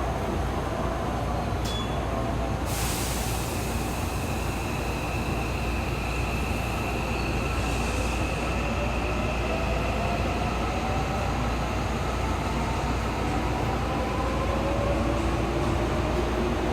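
An electric train's motor whine at a station, falling in pitch at first and then rising again over the following seconds, over a steady hum. A sudden hiss of air sets in about three seconds in.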